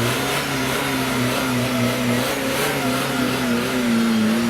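Off-road competition vehicle's engine revving, its pitch rising and falling as the throttle is worked.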